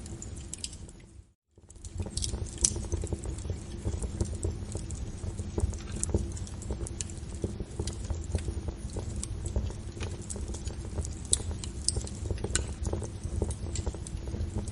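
Wood fire crackling: irregular sharp pops and snaps over a steady low rumble of flames. A little over a second in, the sound fades out to silence for a moment and then comes back in, like a loop join. The loudest pop comes just after that.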